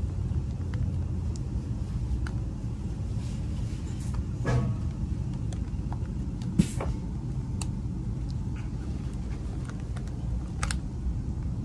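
Steady low rumble inside a Class 350 electric multiple unit as it runs into a station, with a few faint clicks and one sharp click about six and a half seconds in.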